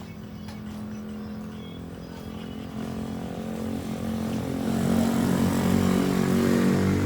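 A motor vehicle's engine running, growing steadily louder through the second half and loudest near the end, as it approaches or passes close by.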